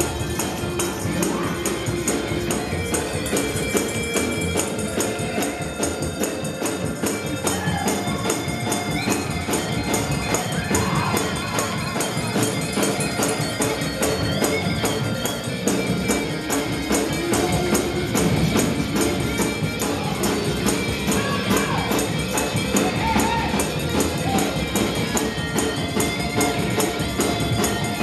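Fast gospel praise-break music led by a tambourine shaken and struck in a quick, steady rhythm.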